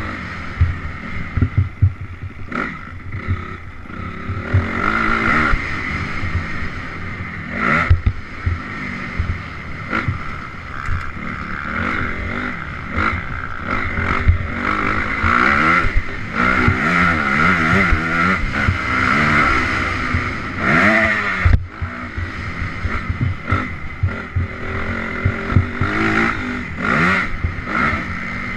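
Honda CRF 250R dirt bike's single-cylinder four-stroke engine revving up and down on a cross-country trail ride, its pitch rising and falling as the rider works the throttle and gears. Many short thumps and knocks run through it.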